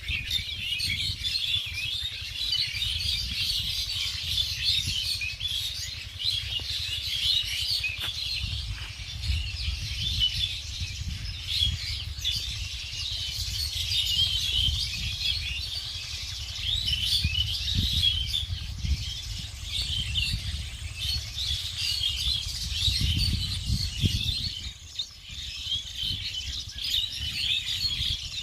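Many small birds chirping continuously in a dense chorus of short, high twittering calls, with a low rumble underneath.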